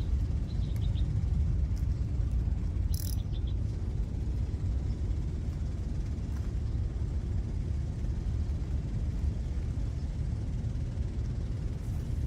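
A steady, low, rumbling outdoor noise, with a brief high hiss about three seconds in.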